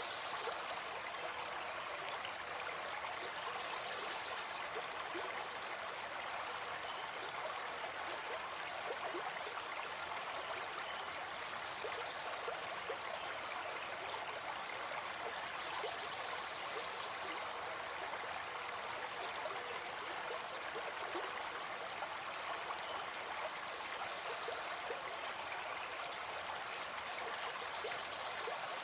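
Gentle forest stream flowing, a steady even rush of water.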